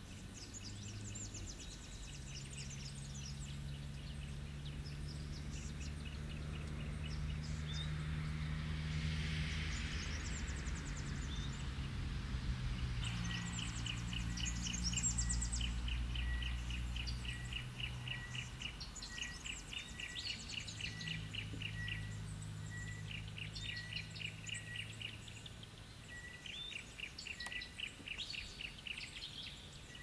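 Forest birds singing and calling: repeated quick series of chirps and high trills from several birds, over a steady low hum.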